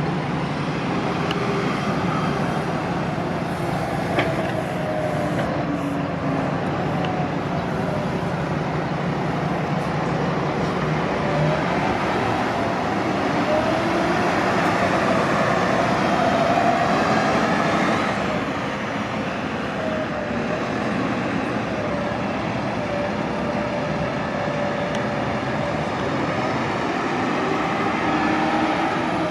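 City transit buses idling and pulling in and out, a steady engine drone with a whine that rises and falls in pitch as buses move off.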